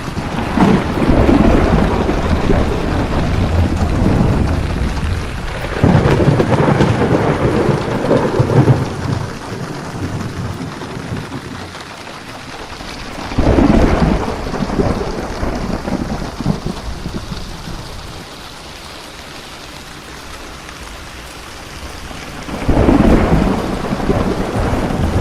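Steady rain falling through a thunderstorm, with rolls of thunder rumbling in several times: loud swells that start suddenly near the start, about six seconds in, about thirteen seconds in and again near the end, and die away slowly between them.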